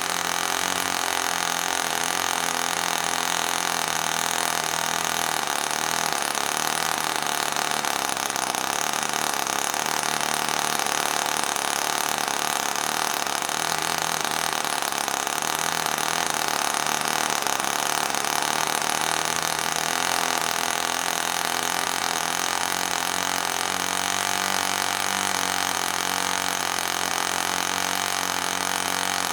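Enya 09-III model glow engine running steadily at high speed, turning an 8x4 propeller, with an even, unchanging high-pitched buzz.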